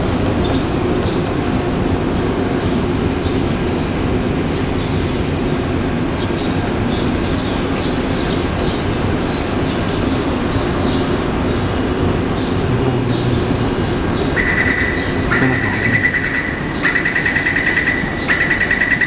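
Taipei Metro C381 train standing at the platform with a steady hum, and birds chirping faintly. About fifteen seconds in, a high warning tone begins and sounds in several beeping pulses: the door-closing warning before departure.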